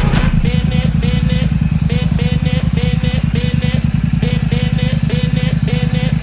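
Royal Enfield Shotgun 650's parallel-twin engine idling steadily through a Mark Performance aftermarket exhaust. A separate high chirp repeats about three times a second alongside it.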